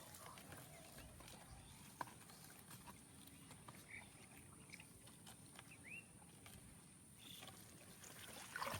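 Near silence: faint outdoor ambience with a few scattered faint clicks and a few faint short chirps in the middle.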